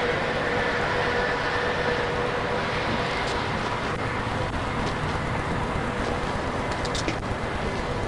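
Steady rushing vehicle noise with a faint hum of constant pitch, and a few light clicks near the middle and end.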